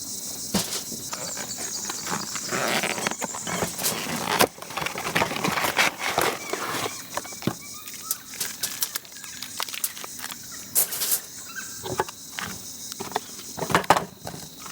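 Irregular handling noises, rustles, knocks and clicks, over a steady high-pitched chorus of insects.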